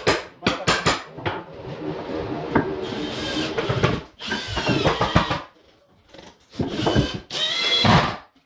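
A power tool running in several short bursts, after a few sharp knocks in the first second, with a brief near-silent gap about six seconds in.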